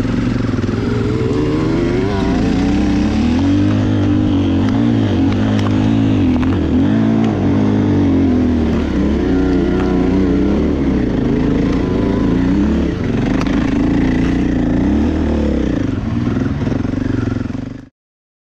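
Enduro dirt bike engine running under riding, its revs rising and falling constantly as the bike works along the trail. The sound cuts off abruptly near the end.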